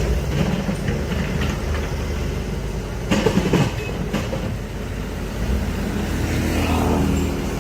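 Heavy diesel machinery running steadily, with a few sharp metallic clanks about three to four seconds in.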